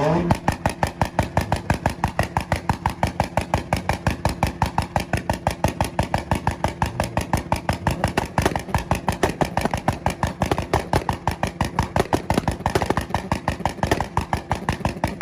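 Tuned car engine held on a two-step launch-control rev limiter, firing a rapid, steady stream of pops and bangs, several a second.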